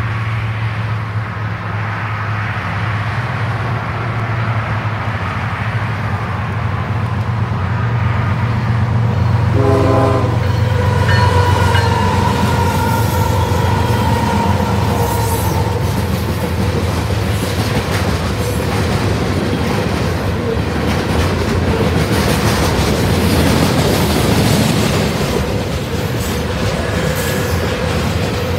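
Union Pacific freight train passing close by. The diesel locomotives' engines rumble as they approach, and the horn sounds briefly about ten seconds in. The freight cars then roll by with the clickety-clack of wheels over the rail joints.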